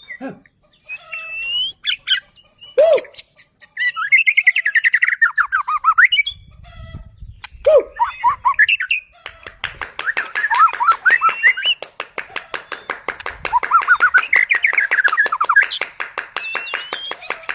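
White-rumped shama (murai batu) singing varied whistled and warbled phrases. From about four seconds in, a fast run of dry clicks, the shama's crackling 'kretekan', runs under the song.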